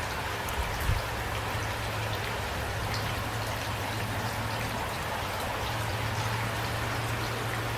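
Light rain falling steadily, with scattered individual drops ticking against a surface and a steady low hum underneath. A brief low thump comes just under a second in.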